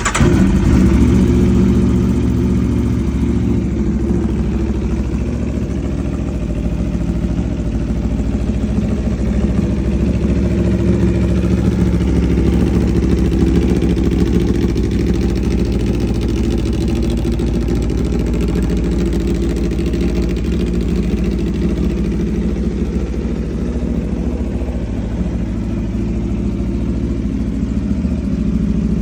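Aprilia RSV4 1100's V4 engine idling steadily through a full titanium racing exhaust, loud and even, just after firing up.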